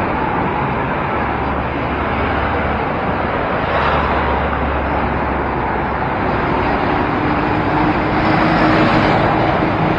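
City road traffic heard from a bicycle: motor vehicles running close by in a steady wash of noise, with one engine's steady hum joining about seven seconds in.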